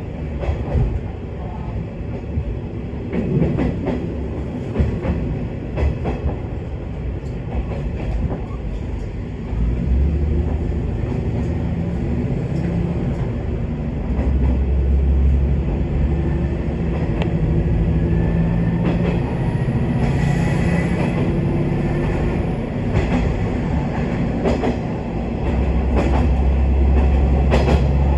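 Inside a diesel railcar running on the line: the engine's low hum grows louder about ten seconds in and again around fourteen seconds as the car pulls harder. Clicks from the wheels passing rail joints come through.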